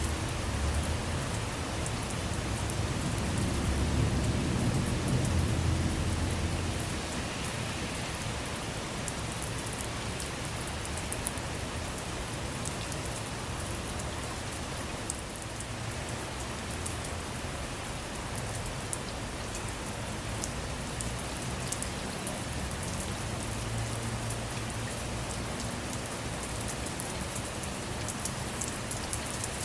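Steady rain falling on a car, with scattered single drops ticking sharply. A low rumble of distant thunder swells a few seconds in and dies away by about seven seconds, and a fainter rumble comes again later.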